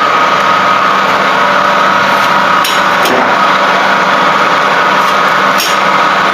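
A small machine motor or engine running steadily at a constant speed, with a few sharp clicks over it around the middle and near the end.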